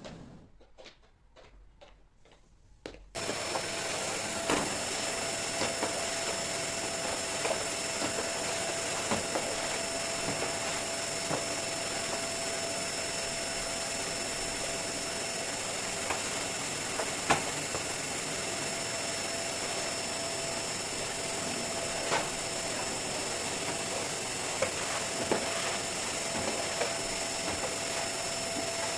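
Vacuum cleaner switched on about three seconds in, then running steadily with a hum and a high whine, with occasional clicks and knocks over it.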